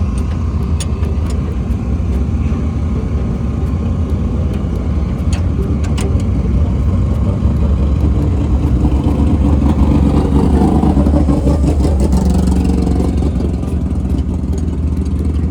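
Race car engines running at the dirt track, over a steady low rumble. The engine sound swells and rises and falls in pitch in the middle of the stretch, like cars revving or passing.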